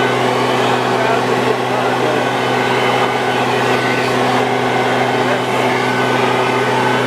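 Steady hum and rushing noise of an electric machine running continuously while leaves are cleared from a pond, most likely a pond vacuum.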